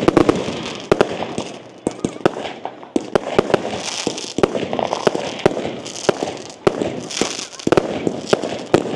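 Firework display going off: a rapid, irregular string of sharp bangs, several a second, over continuous crackling.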